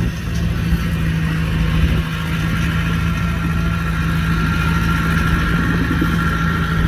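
Heavy diesel engine of an earthmoving machine running steadily, a constant low hum with a thin steady whine above it.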